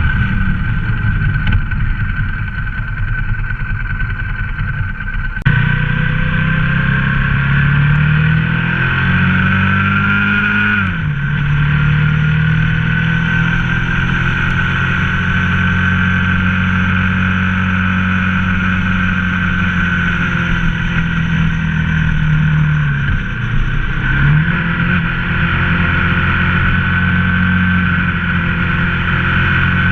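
Ducati ST4S V-twin motorcycle engine running on the move. The revs climb and then drop sharply about eleven seconds in, as with a gear change. A brief dip and pickup comes around the twenty-three second mark.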